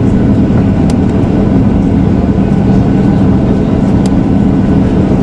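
Steady rumble of an airliner cabin, with a constant low hum running through it.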